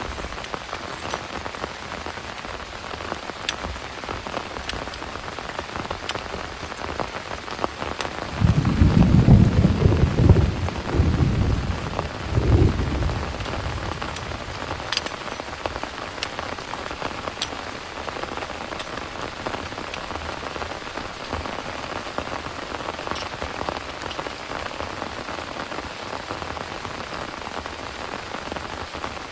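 Heavy rain falling steadily, with scattered sharp drip ticks. About eight seconds in, a low rumble of thunder comes in several swells for some four seconds, the loudest part, then the rain carries on alone.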